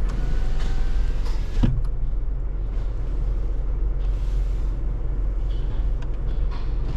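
Steady low rumble of a car idling in neutral, heard from inside the cabin at the entrance of an automatic car wash tunnel, with one sharp click about a second and a half in.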